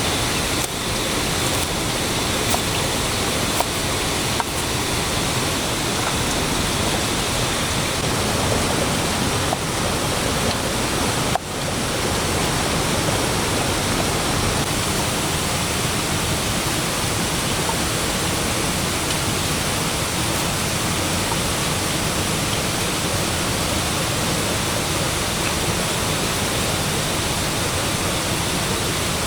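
Steady rush of water, an even hiss of noise with no rhythm, broken by a short dip about eleven seconds in.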